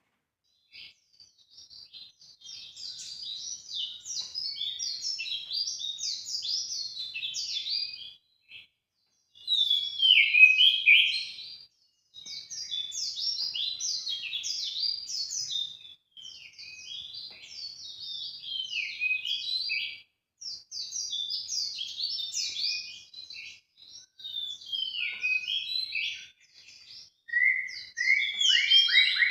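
Songbird song used as a bird-luring call: rapid, high, twittering chirps in phrases of a few seconds each, separated by brief pauses.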